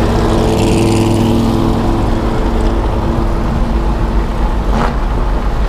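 Twin-turbo 5.3-litre LS V8 of a 1974 Chevrolet Nova running at a fairly steady speed, with a brief sharp click about five seconds in.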